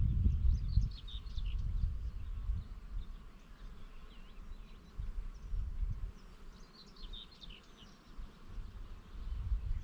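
Breeze buffeting the microphone in uneven low rumbling gusts, strongest in the first two seconds, while small birds chirp in two short bursts, about a second in and again about seven seconds in.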